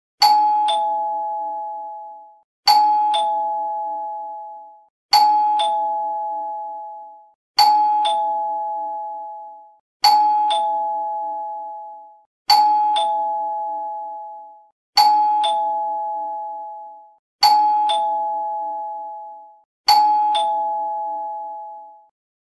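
Two-note ding-dong doorbell chime, rung nine times at an even pace of about one every two and a half seconds. Each chime is a higher note followed half a second later by a lower one, and each fades out over about two seconds.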